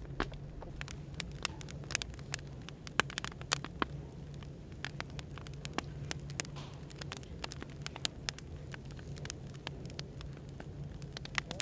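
Wood fire crackling, with many irregular sharp pops and snaps, over a steady low hum.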